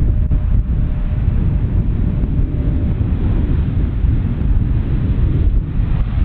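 Jet airliner engines heard outdoors as a loud, steady low rumble with a hiss over it.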